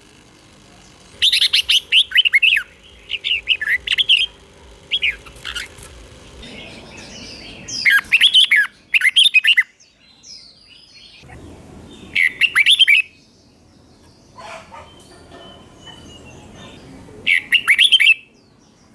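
Red-whiskered bulbul singing: short, clear warbled phrases with quick up-and-down notes, given in bursts of a second or two with pauses of a few seconds between them.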